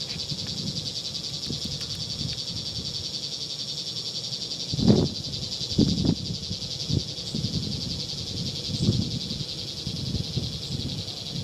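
A steady, high-pitched, finely pulsing drone, typical of insects calling in the woods, with a few short low sounds from the woods starting about five seconds in, the loudest being the first. The man watching takes these low sounds for Bigfoot.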